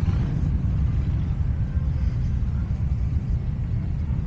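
Steady low rumble of motorcycle engines in the street.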